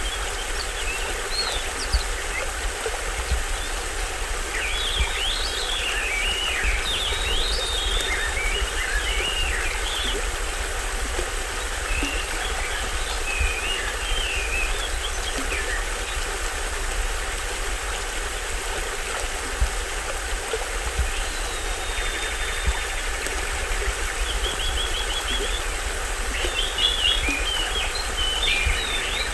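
Small stream waterfall splashing steadily, with forest birds chirping and calling in scattered bursts over the water.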